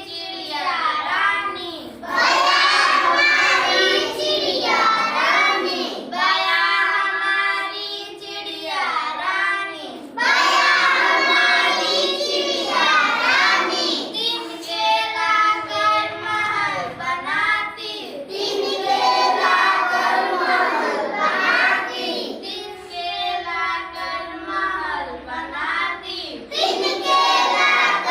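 A child singing a Hindi children's poem in short phrases of about two seconds each, with brief breaks between them.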